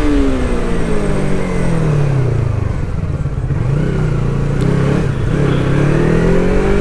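Yamaha R3's twin-cylinder engine under way: its pitch drops over the first couple of seconds as the bike slows, then rises again as it accelerates through the second half.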